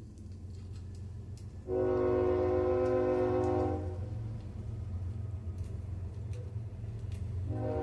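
A train horn sounding a chord of several notes: one blast of about two seconds, then a second blast starting near the end, over a steady low rumble.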